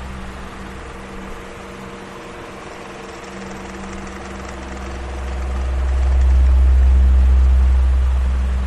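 Electric fan running with a steady motor hum and air noise. A deep low rumble fades out in the first second and swells back strongly from about halfway through.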